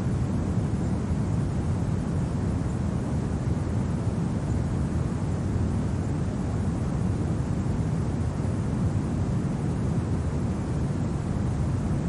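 Steady, deep winter wind noise with no distinct events.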